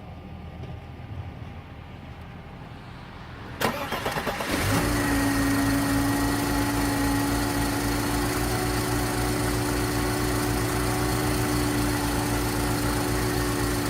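Mercedes 300SEL's M103 straight-six engine being started cold: the starter engages about three and a half seconds in, cranks for about a second, and the engine catches and settles into a steady idle. It starts without trouble in the cold weather.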